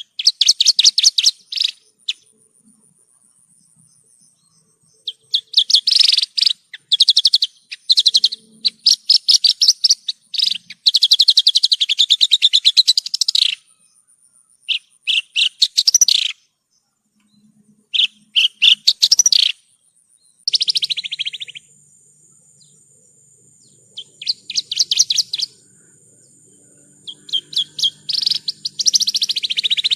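Javan bush lark (branjangan) singing: phrases of rapid, buzzy trilled notes, some a few seconds long, separated by short pauses. A thin steady high whine runs beneath the song in the second half.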